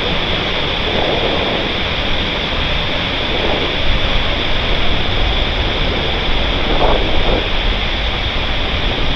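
Jet airliner engines running with a steady, loud roar and a high whine on top, typical of an aircraft on the runway.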